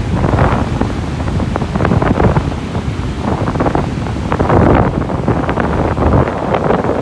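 Sea waves breaking and washing up on a beach, the wash swelling and falling back every second or two, with wind buffeting the microphone in a heavy low rumble.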